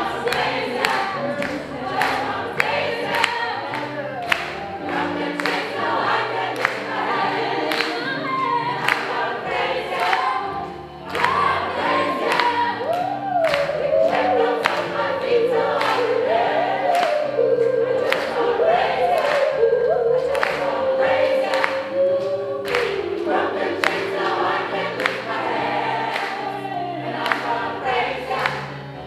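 Gospel choir singing over a steady percussive beat, with a sung line winding up and down standing out through the middle.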